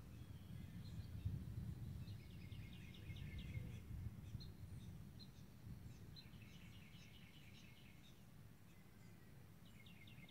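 A songbird singing two short phrases of quick repeated high notes, about two and six seconds in, with a few single chirps between them, over a steady low rumble.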